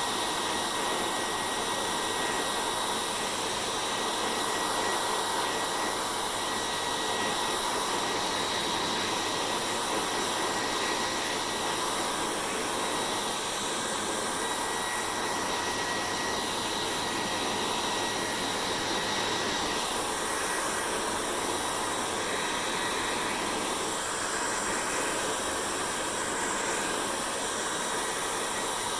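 Hair dryer running steadily: an even rush of blowing air with a faint high whine, unchanging throughout.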